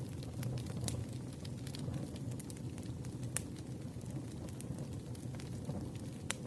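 Campfire crackling: a steady low rumble of burning with scattered sharp pops and snaps, two of them louder, a little after three seconds and near the end.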